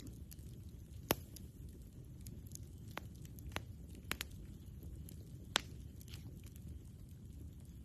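Wood campfire crackling, with about six sharp pops, the loudest about a second in and at about five and a half seconds, over a low steady rumble.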